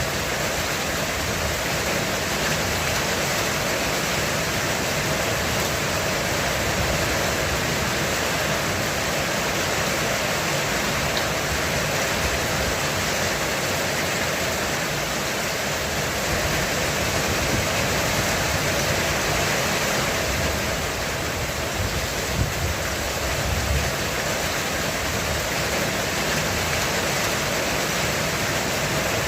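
Heavy rain falling steadily on a roof, a dense even hiss of drops with no letup.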